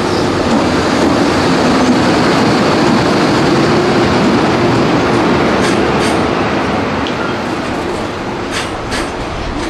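A JR Freight EH500 electric locomotive and its container freight train passing through: a steady rumble of wheels on rail with a low hum in the first half. Several sharp wheel clicks come in pairs in the second half as the container wagons roll past.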